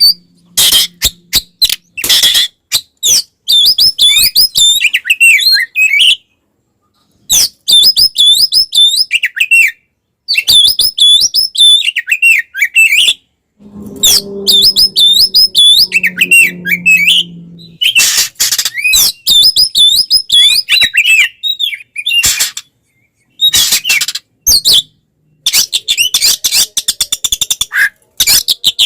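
Oriental magpie-robin (kacer) singing loud, rapid, fast-changing phrases of whistles and sharp clicking notes in bursts with short pauses. It is the aggressive 'fighting' song of a male kacer.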